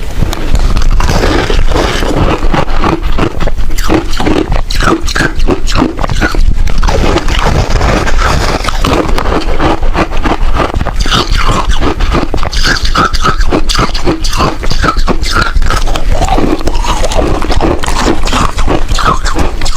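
Freezer frost being bitten and chewed: a continuous run of dense crackling crunches.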